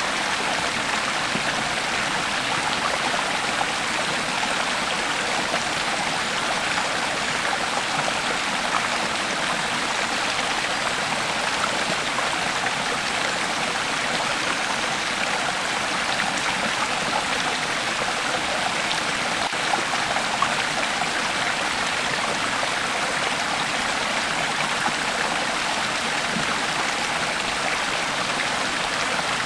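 Creek water flowing steadily over stones, a continuous rushing babble with small splashes and trickles in it.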